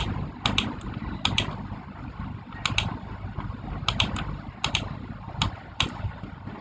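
Keys clicking irregularly, often two in quick succession, as someone types or presses buttons, over a steady low machine hum.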